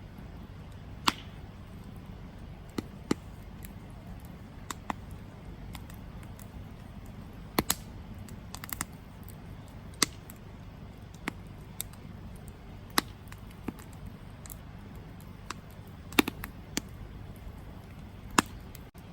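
Wood campfire burning: irregular sharp crackles and pops, roughly one every second and a few louder ones, over a steady low rumble.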